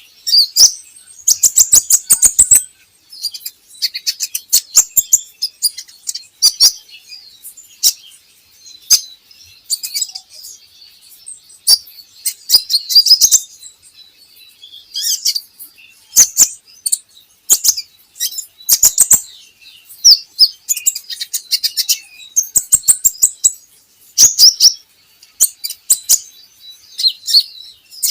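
Kolibri ninja sunbird singing: bursts of high, rapid chirps and fast rattling trills, repeated every second or two. It is a lure song of the kind played to young birds to get them singing.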